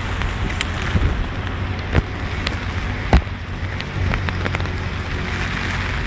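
Heavy rain falling: a steady hiss dotted with sharp drips and splashes, and two louder knocks about two and three seconds in, over a low rumble.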